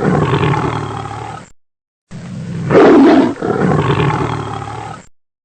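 Lion roaring, a recorded roar that fades out, then the same roar plays again from about two seconds in.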